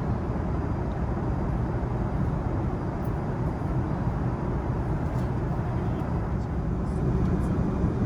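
Steady in-flight cabin rumble of an Airbus A380 with Rolls-Royce Trent 970 engines, heard inside the upper-deck cabin: a low, even roar of airflow and engine noise that swells slightly near the end.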